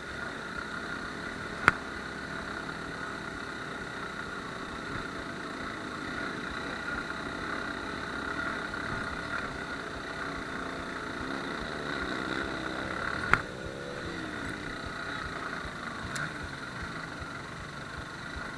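Suzuki Gixxer single-cylinder motorcycle engine running under way, its pitch rising and falling a few times about two-thirds through. Two sharp knocks stand out, one near the start and one about thirteen seconds in.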